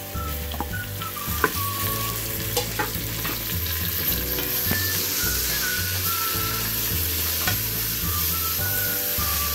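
Raw minced meat sizzling in hot oil with fried onions and garlic in a pressure cooker, stirred and scraped with a wooden spoon, giving scattered clicks over a steady sizzle.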